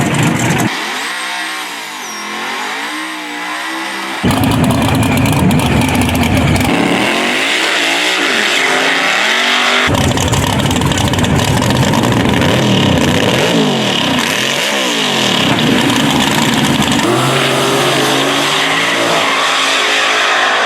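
Drag race car engines revving and accelerating hard, their pitch rising and falling, in several short stretches that change abruptly from one to the next.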